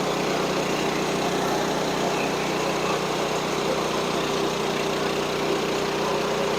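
Portable band sawmill's engine running steadily at an even pitch, with no change in load.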